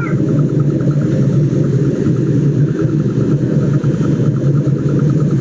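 A steady, loud engine drone with a strong low hum and a faint, evenly repeating ticking above it.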